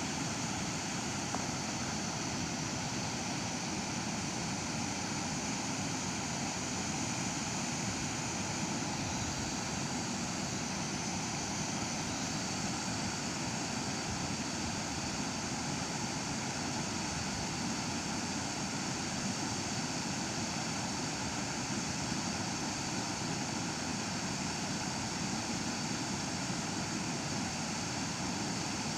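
A waterfall rushing steadily, an even noise of falling water with no breaks or changes.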